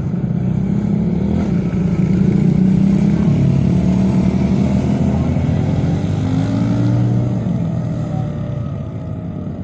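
Several small dirt-bike engines running at different pitches, their revs rising and falling as they circle. They grow louder for a few seconds, then fade near the end.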